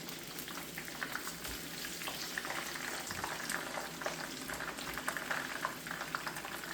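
Cornflake-coated chicken strips frying in hot oil: a steady sizzle with constant fine crackling.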